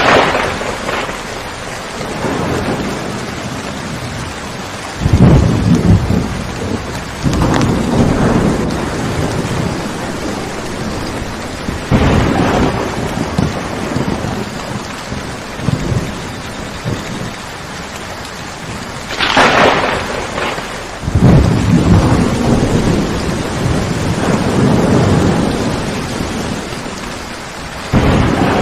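Steady rain with repeated thunder: sharp cracks at the start and about two-thirds of the way through, and several long low rumbles that swell and fade.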